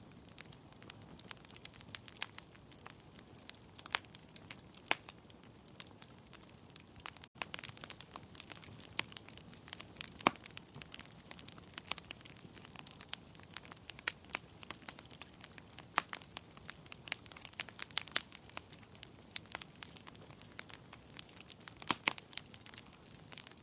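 Wood fire burning in a fireplace: irregular sharp crackles and pops from the logs over a low steady hiss of the flames.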